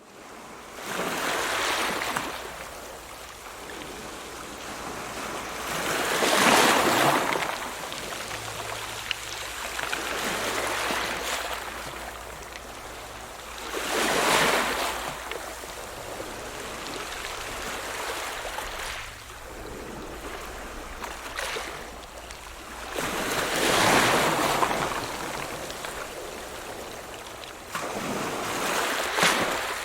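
Ocean waves breaking on the shore: five separate crashes, each swelling up and falling back into a steady rushing wash of surf between them.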